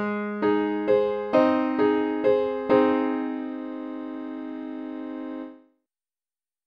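Piano from a MIDI backing track plays a closing phrase of single notes, about two a second. It ends on a held chord that rings for about three seconds, then cuts off suddenly.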